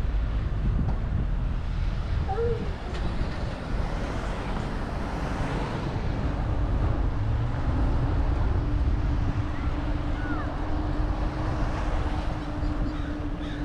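Wind rumbling on the microphone of a moving bicycle, with traffic-like noise underneath. A steady low hum joins about six seconds in, and a couple of brief chirps come near the start.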